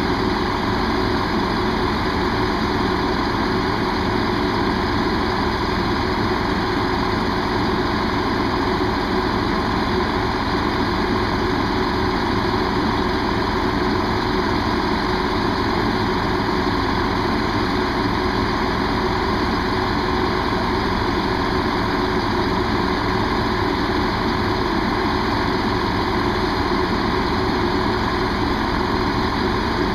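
Diesel train engine idling at a standstill, a steady, unchanging engine hum.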